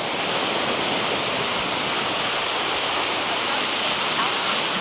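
Waterfall in full flow: a steady, dense rush of falling water.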